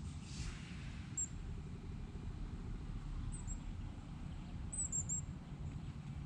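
Small birds giving short, very high-pitched chirps: one about a second in, another a couple of seconds later, and a quick run of three or four near the end, over a steady low rumble.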